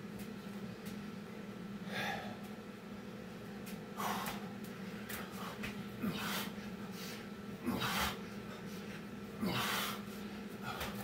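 Heavy breathing of a man out of breath between Navy SEAL burpee reps: hard, noisy breaths every second or two, over a steady low hum.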